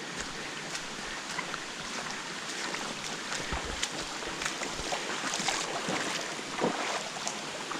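Shallow creek water rushing over rocks, with scattered splashes and footsteps as someone crosses the creek, more of them in the second half.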